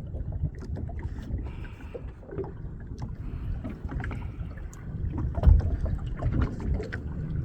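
Wind rumbling on the microphone and water moving against a small open fishing boat at sea, with scattered light knocks and a louder thump about five and a half seconds in.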